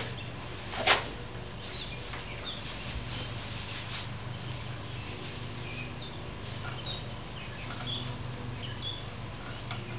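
Small birds chirping now and then over a steady low hum, with one sharp click about a second in.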